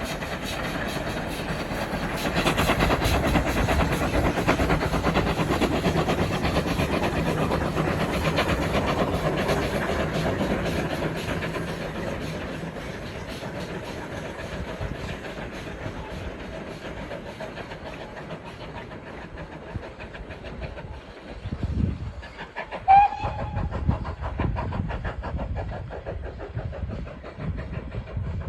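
Heritage railway train running along the line, its wheels clicking rhythmically over the rails; the sound is louder for the first ten seconds or so, then eases off. About 23 seconds in there is a brief, sharp high-pitched note.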